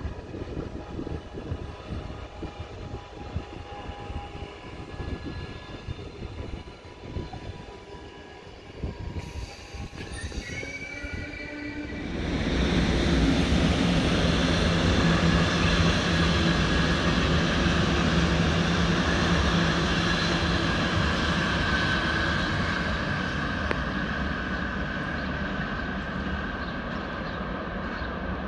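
A train runs past close by. It comes in suddenly about twelve seconds in as a loud rail rumble with a steady high-pitched tone over it, then slowly tapers off. Before that, quieter rail ambience with faint distant tones.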